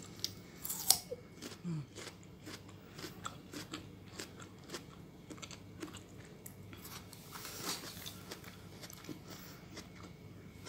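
Close-up chewing of crisp Korean oriental melon (chamoe): a run of short, crisp crunches as the firm flesh breaks between the teeth, with one louder crunch about a second in.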